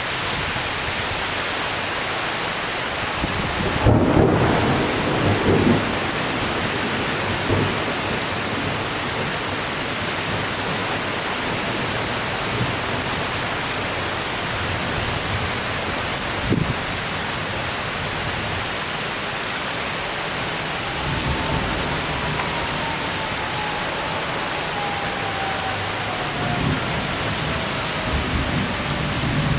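Heavy rain falling steadily in a severe thunderstorm, with thunder rumbling loudly about four seconds in and more softly later on, and a short sharp crack about halfway through. A faint tone slowly falls in pitch during the second half.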